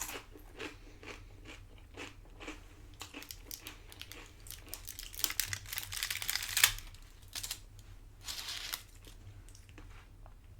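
Close-up chewing and crunching of tortilla-chip nachos: a quick run of crisp crunches that thickens in the middle, peaks with one loud crunch, then thins out toward the end.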